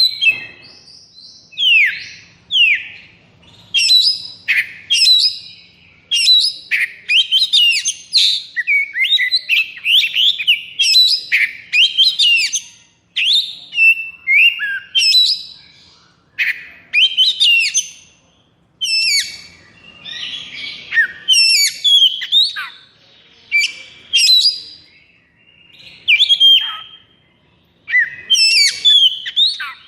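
Oriental magpie-robin (kacer) singing fast, varied phrases of loud whistles, trills and sweeping notes one after another with only brief gaps, with a harsher rasping stretch about two-thirds of the way through. This is the excited, aggressive 'konslet' song that keepers use to provoke other magpie-robins into singing.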